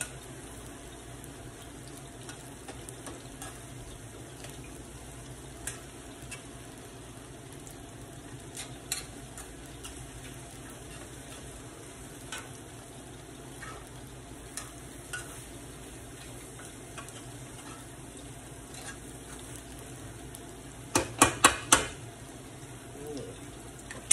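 Ripe plantain slices sizzling as they fry in oil, while a metal spoon stirs rice with sausage in a metal pan, scraping and clinking now and then. Near the end come about four sharp knocks in quick succession.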